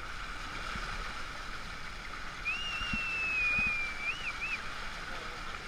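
Steady rush of water along a sailing yacht's hull. About two and a half seconds in comes a high, clear whistle held for about two seconds, ending in a couple of quick wavering notes.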